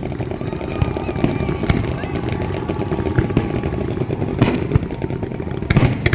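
Fireworks display going off: steady dense crackling, with loud bangs about four and a half seconds in and again near the end.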